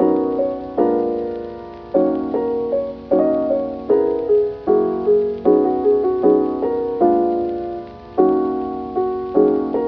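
Background piano music: gentle chords struck about once a second, each ringing and fading, with a simple melody over them.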